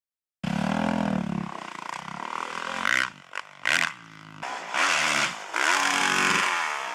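Motocross bike engine revving up and down several times, starting abruptly about half a second in.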